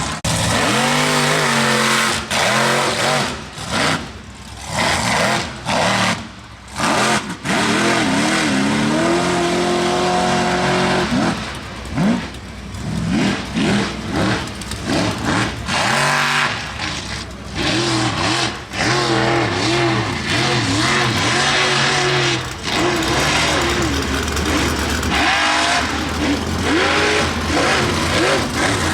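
High-horsepower mega truck engine revving hard, the throttle opened and closed repeatedly so the pitch rises and falls, with several short drops in the first few seconds and then mostly sustained full throttle.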